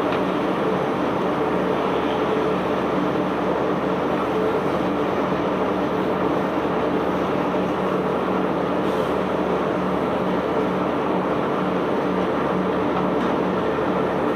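Barge unloading machinery running steadily: a constant engine drone under a continuous noisy rumble.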